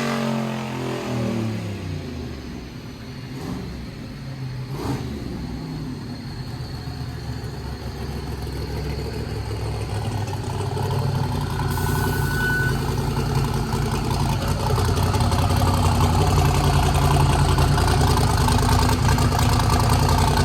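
Twin-turbo Corvette Z06 427 V8 running on a chassis dyno. Its revs fall away at the start, then it runs on and grows steadily louder toward the end.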